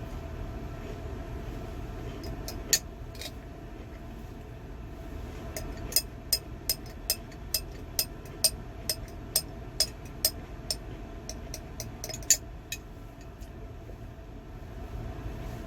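A spoon clinking sharply against a glass sauce jar. There is one click, then a regular run of about ten at roughly two a second, then one more loud click. A steady vehicle hum runs underneath.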